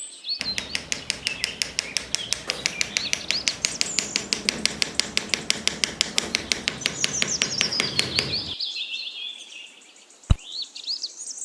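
Small birds chirping and twittering over a fast, even tapping of about six or seven sharp knocks a second that stops after about eight seconds; one more sharp click near the end.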